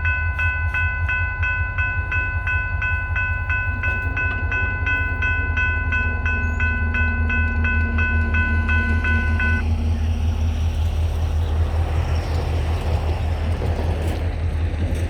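Railroad grade-crossing bell ringing in rapid, even strokes, then stopping about two-thirds of the way through. Under it runs the steady low rumble of a DeQueen and Eastern GP40-2 diesel locomotive.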